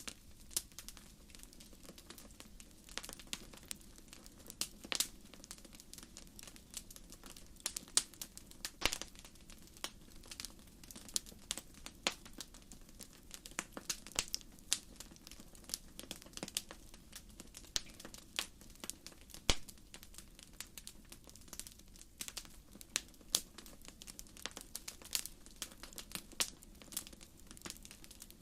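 Wood fire crackling: dense, irregular pops and snaps of burning firewood, several a second, some louder than others, over a soft low rush of the flames.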